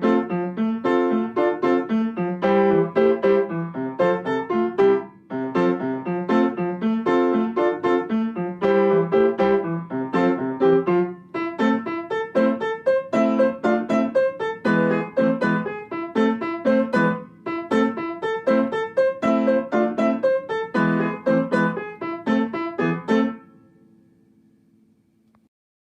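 Background piano music, a brisk run of struck notes. It fades out about 23 seconds in.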